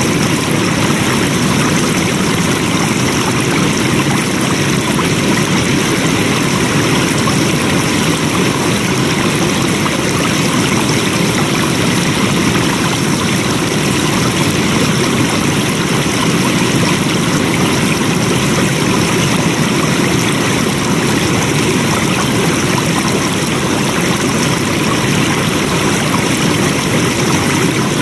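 Water flowing steadily in a stream, a constant rushing and trickling with no change.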